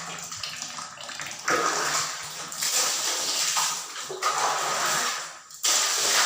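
Rushing water noise that swells and falls in several surges, over a faint steady low hum.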